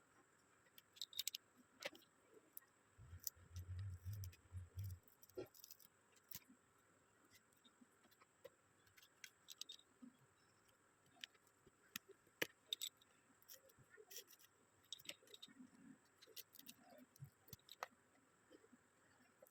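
Faint, scattered small clicks and taps of tools and thin plastic phone parts being handled while antenna strips are fitted to a phone's back cover, with a low buzz for about two seconds a few seconds in.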